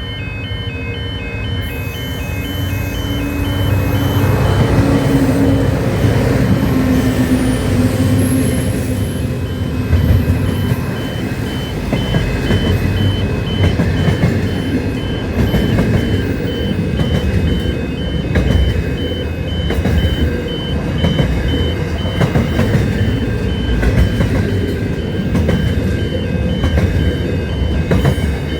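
A train running by with a steady heavy rumble that swells about four seconds in. A fast, even, high-pitched beeping sounds alongside it.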